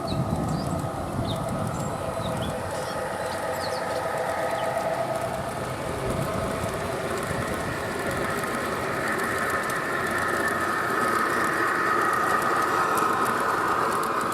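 A G gauge model diesel train running on garden railway track: a steady mechanical hum and whine that slowly grows louder. Birds chirp in the first few seconds.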